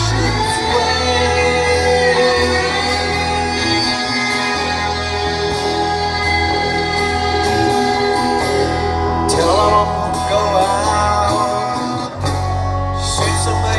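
Live rock band playing a sustained instrumental passage, with long held tones that slide slowly in pitch over a heavy bass; the bass drops out briefly near the end and comes back in.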